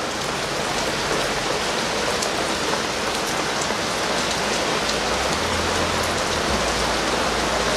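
Torrential rain hissing steadily as it pours onto a flooded road. A low rumble rises underneath about five seconds in.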